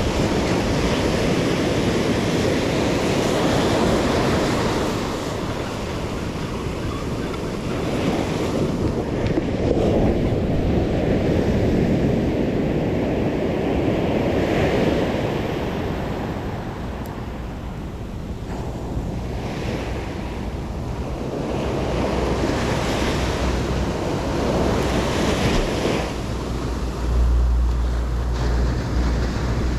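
Sea surf breaking on the beach, the wash swelling and ebbing every few seconds, with wind rumbling on the microphone, strongest near the end.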